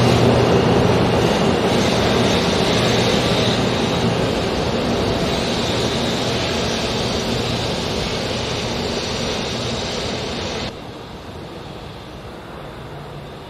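0 series Shinkansen train running out along the platform track, its running noise fading steadily as it moves away. About eleven seconds in, the level drops suddenly and stays lower.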